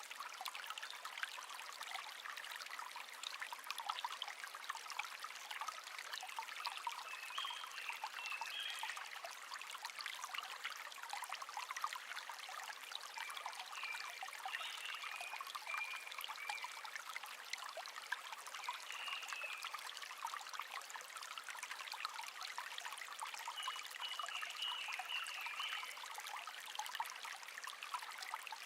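Shallow stream trickling and babbling steadily over stones. A small songbird sings faint, short, high warbling phrases about four times, a few seconds apart.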